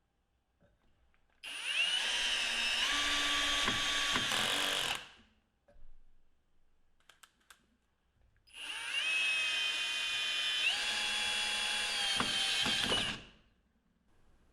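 Milwaukee M18 2604 cordless hammer drill's motor and gearbox running, twice: each run spins up with a rising whine, holds steady for three to four seconds with a step in pitch partway through, then winds down. A few small clicks come between the two runs.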